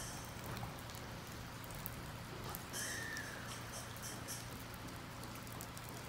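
Rain falling around a stationary JR Kyushu 815 series electric train, over a steady low hum. About three seconds in there is a short high chirp with a few quick bursts of hiss.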